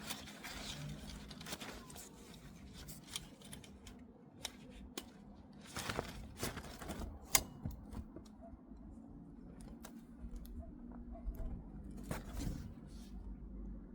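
A prize package being opened by hand: scattered rustling, tearing and small clicks of packaging.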